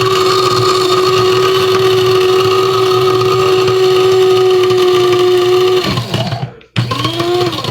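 Electric blade coffee grinder running loudly at a steady pitch while grinding mothballs, then winding down about six seconds in, followed by a second short burst near the end.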